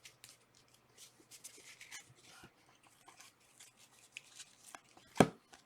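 Trading cards being handled: faint sliding and rubbing of cards against each other, with a sharp tap about five seconds in.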